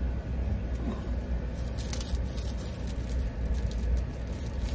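Steady low rumble of an idling car heard inside the cabin, with a few short rustling sounds about two and four seconds in.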